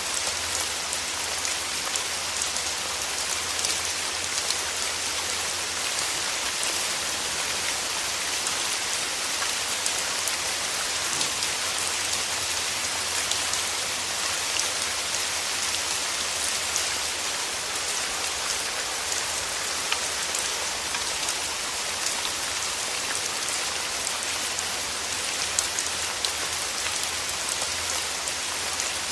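Steady rain: a dense, even hiss of falling rain with many small, sharp drop ticks scattered through it, unchanging throughout.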